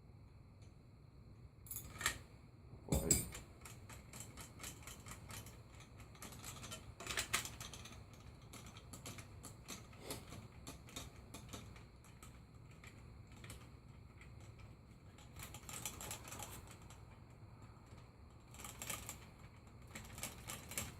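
Hand tools and metal suspension parts clicking and clinking in irregular clusters of short ticks while bolts are worked loose, with a few louder knocks, over a faint low hum.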